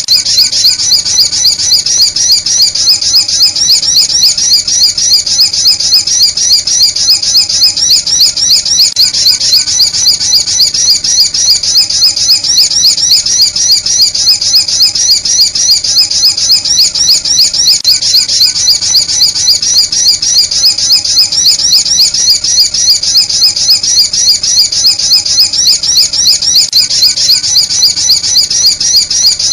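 Lure recording of sunbird calls: a rapid, even string of high chirps, several a second, repeating without a break like a looped call used to draw sunbirds in.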